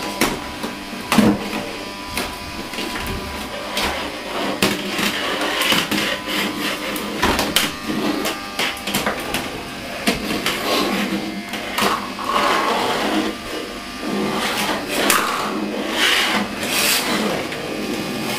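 Casdon toy 'Henry' vacuum cleaner's small battery motor whirring steadily, with frequent knocks and clatter as the toy is pushed about.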